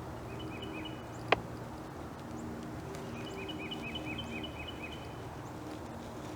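A songbird singing in woodland, a quick run of repeated chirps, short at first and then a longer string of about eight notes. A single sharp click or snap cuts in about a second and a half in.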